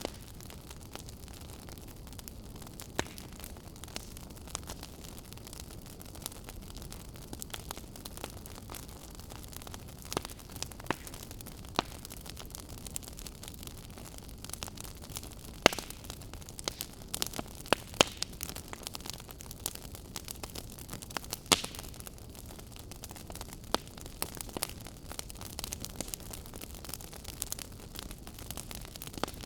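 Wood fire crackling in a fireplace: a steady hiss with frequent sharp pops and snaps, the loudest and busiest of them about halfway through.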